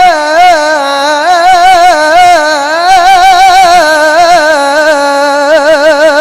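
A qari's high voice reciting the Quran in the slow, melodic mujawwad style, holding one long drawn-out vowel through continuous wavering trills and ornaments.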